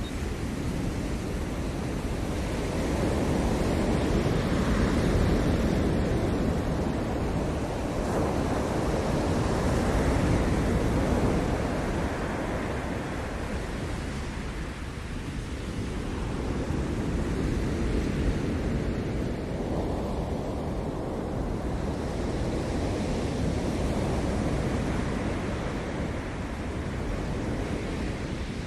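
Ocean surf breaking on a Maui shore: a continuous wash of waves that swells and eases every several seconds, with the biggest surges in the first half.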